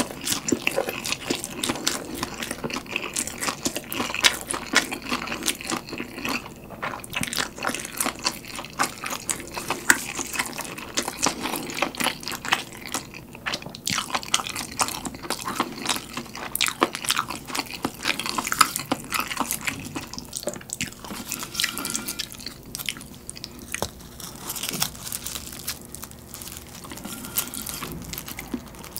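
Close-miked eating sounds: chewing and biting into spicy fried noodles wrapped in crisp dried seaweed (gim), with many short crunches and crackles.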